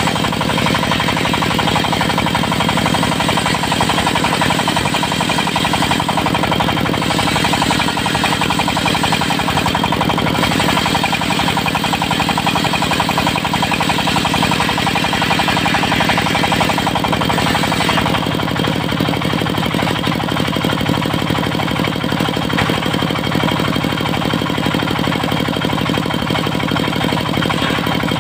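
Diesel engine driving a mobile circular sawmill, running steadily with a fast rhythmic chug. About two-thirds of the way through, the higher hiss thins out and the level drops slightly.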